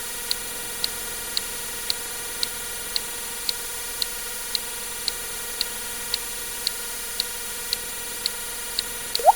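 Water-drip sound effect: a single short plink rising in pitch near the end, over steady ticking about twice a second and a static hiss.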